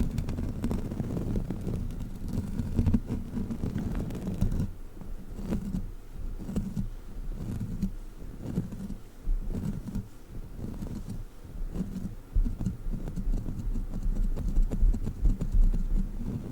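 Sticky rubber crawler toy handled right against the microphone, giving irregular muffled rubbing and low thuds with a few small clicks. The sounds ease off somewhat after about five seconds and pick up again near the end.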